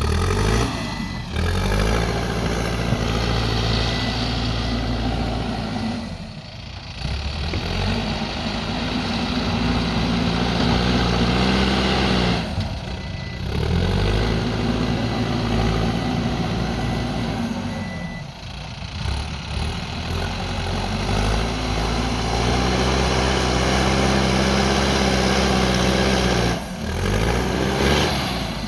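Backhoe loader's diesel engine working under load, its speed rising and falling in cycles and dropping back briefly about every six seconds.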